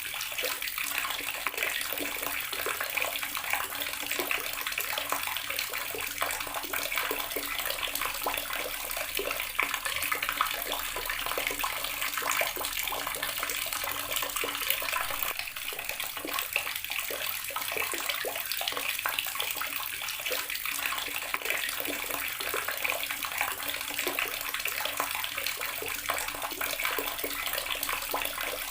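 Outdoor garden water tap running steadily, its water splashing continuously with a dense, even crackle.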